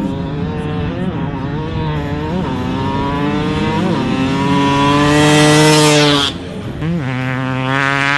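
Yamaha YZ250X two-stroke engine with a Pro Circuit pipe and silencer, revving hard up through the gears: the pitch climbs, dips briefly at each shift, and peaks loudest about five to six seconds in. The rider then chops the throttle suddenly and the engine pulls again.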